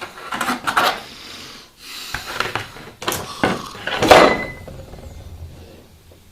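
Hard objects clattering as they are handled and set down: a string of knocks, the loudest about four seconds in, followed by a brief ringing tone.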